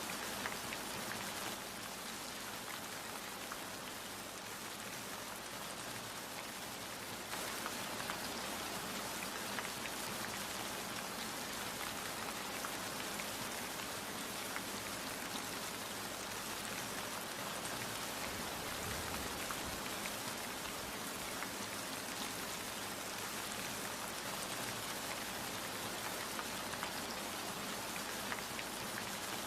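Steady rain falling, with single drops heard distinctly through the wash. It grows a little louder about seven seconds in.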